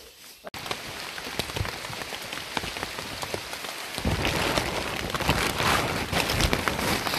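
Rain falling, with many separate drop hits heard through a steady hiss. It starts abruptly about half a second in and gets heavier about four seconds in.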